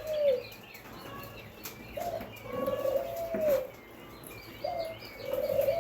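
Birds calling in a hatching hut: a low call that rises, holds and then drops, repeated three times about every two and a half seconds, with faint high peeping from newly hatched chicks around it.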